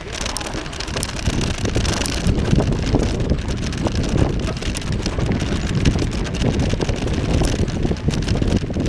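Wind buffeting the microphone during a bicycle ride: a steady low rumble, with the crackle of tyres rolling over the path.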